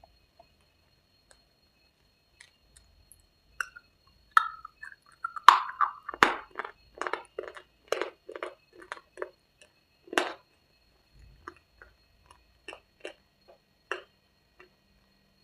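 Crunchy cubes being bitten and chewed close to the microphone. After a few faint clicks comes a run of crisp, irregular crunches, and then fewer, softer ones.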